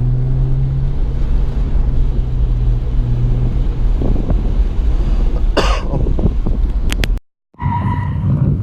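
Car engine running at low revs with a steady low hum that thins out after about a second into a rumble. A short sharp noise comes about five and a half seconds in, followed by a few clicks, and the sound cuts off abruptly near the end.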